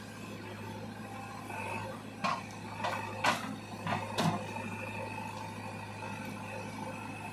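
Diesel engine of a JCB 3DX backhoe loader running steadily at work, with a cluster of about five sharp knocks a little over two seconds in.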